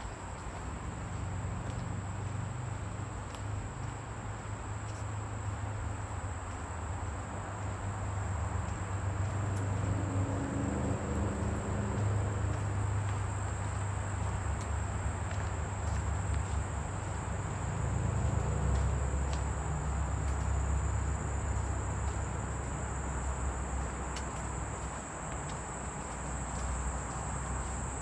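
Steady high-pitched chorus of insects (crickets or katydids) shrilling without a break, over an even rushing noise and a low rumble that swells and fades.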